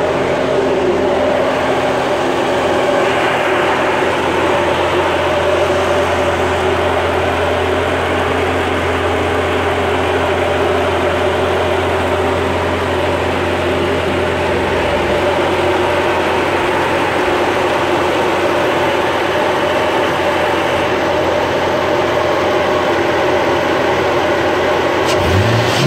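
LS1 5.7-litre V8 with a dual Magnaflow exhaust idling steadily. Right at the end the throttle is opened by hand at the throttle body and the revs rise briefly.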